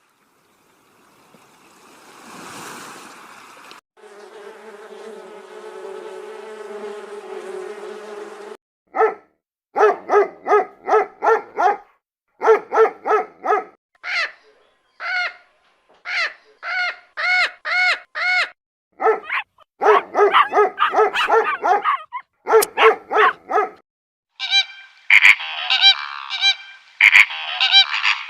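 A rising and falling whoosh, then a steady pitched drone for about four seconds. After that comes a long run of short animal calls, several a second in quick series, growing denser and harsher near the end.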